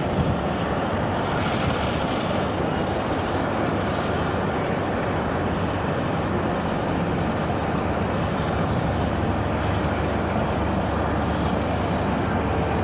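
A diesel train running, heard as a steady, even rumble and rush.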